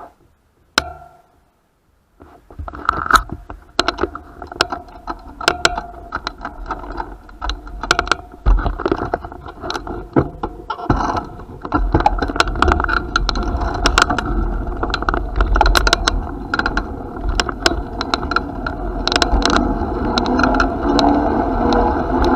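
Bicycle on the move: rapid irregular rattling and clicking of its parts over a steady rumble, which gets louder about halfway through.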